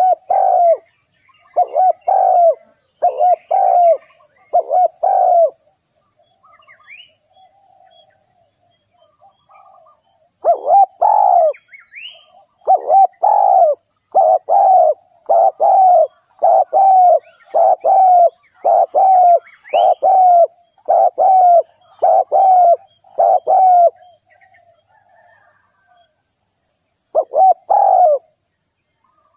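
Spotted dove cooing, the decoy call used to lure wild doves: quick runs of deep, loud coo notes, each phrase repeated over and over. The cooing breaks off for about five seconds after the first few phrases, runs on steadily for some thirteen seconds, then pauses again before two last notes near the end.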